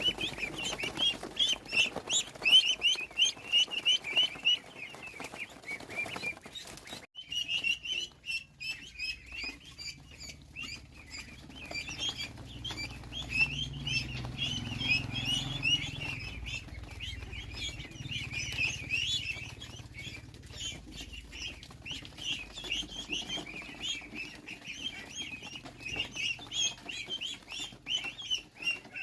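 A crowd of ducklings peeping continually, many high chirps overlapping, with a short break about seven seconds in. A faint low rumble lies underneath in the middle stretch.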